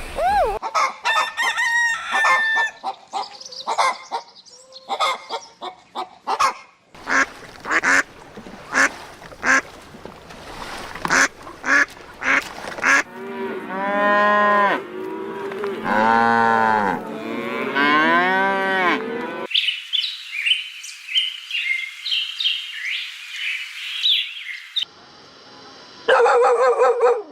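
A series of farm animal calls cut together. Scattered clicks and short calls come first, then a run of repeated pitched calls that rise and fall, then high chirping, and another pitched call near the end.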